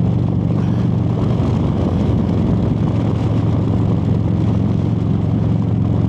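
Harley-Davidson Road Glide's V-twin engine running under way; its note wavers for the first few seconds, then settles to a steady pitch.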